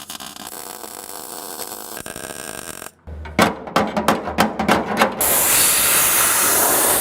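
Arc welding sheet steel: a string of short crackling bursts about three seconds in, like spot-by-spot plug welds, then a couple of seconds of steady, continuous welding crackle. Loud.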